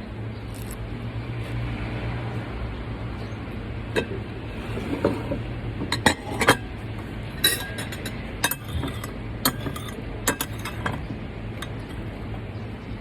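Cutlery clinking against dishes: about eight sharp clinks, spread over several seconds, above a steady low hum.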